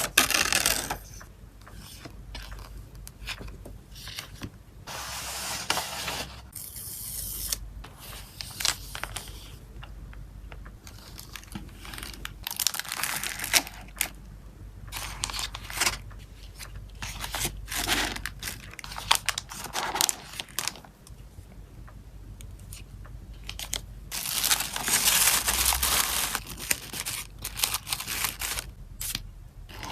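Hands packing photocards, with plastic sleeves and packaging crinkling, rubbing and tearing in short bursts. A longer stretch of tearing and rustling comes about twenty-five seconds in.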